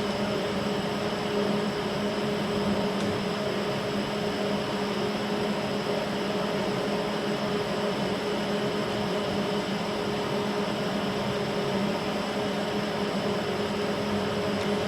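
Steady machine hum: a low, even drone with a few steady tones over a hiss, unchanging in level.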